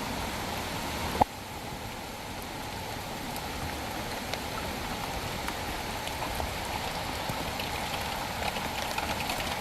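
Heavy rain and a flooded gully rushing with water, a steady watery hiss. A single short knock sounds about a second in.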